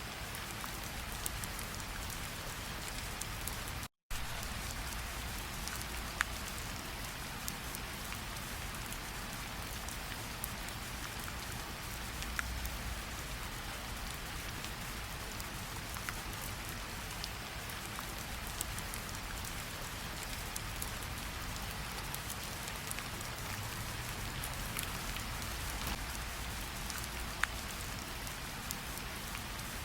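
Steady rainfall with scattered sharp drop hits. The sound cuts out completely for a split second about four seconds in.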